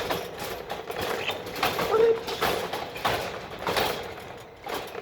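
Budgies moving about their cage: a string of short rustling, scraping and creaking noises, with a brief low squawk about two seconds in.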